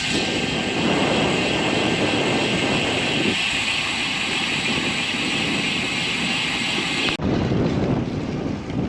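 Steady rushing wind and road noise from a moving bicycle, heard on the rider's camera microphone. About seven seconds in the upper hiss drops away suddenly.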